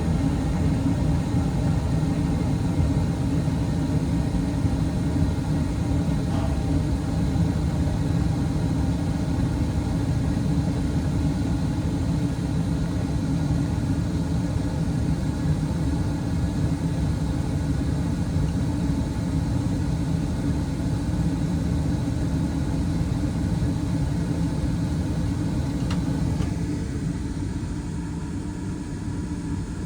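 2019 Carrier Performance Series 80% gas furnace running steadily: the draft inducer motor's whirring hum over the low rumble of the lit burners. About 26 seconds in the sound drops a little quieter and loses some of its higher hiss.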